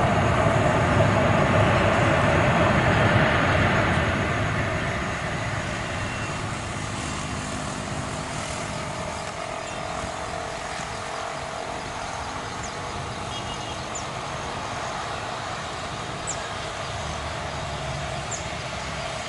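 Jet airliner's engines passing close, loud for about the first four seconds, then fading to a steady, distant rumble.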